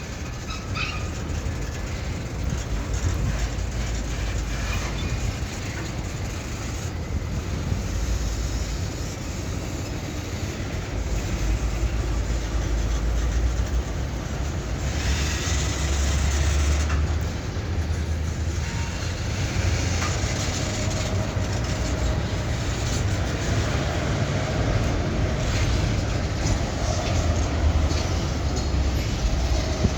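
EMD GP38-2 and GP40-2LW diesel locomotives working in a freight yard: a steady low diesel rumble with freight cars rolling and clicking over the rail joints. There is a brief faint wheel squeal about a second in, and the sound is loudest about halfway through.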